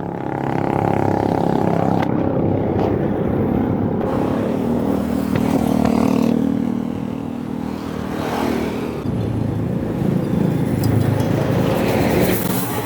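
Road traffic: motor vehicle engines running and passing close by, a steady drone that swells and fades.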